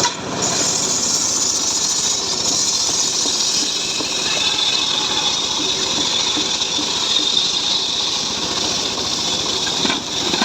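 Homemade engine-driven sawmill saw running steadily as it cuts a mahogany log, a dense hissing whine that dips briefly about ten seconds in.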